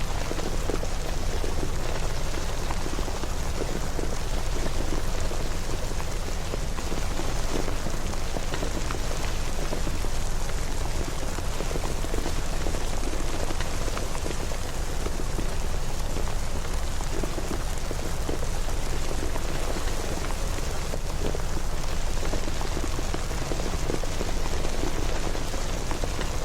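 Steady rain falling on hard surfaces, an even hiss with many small drop ticks.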